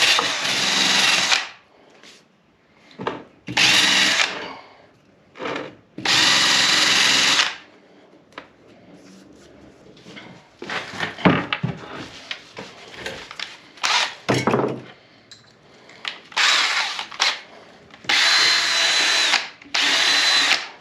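Handheld power tool run in several short bursts of a second or so against the welds of a welded differential, cleaning off welding slag, with scattered knocks and clatter between the bursts.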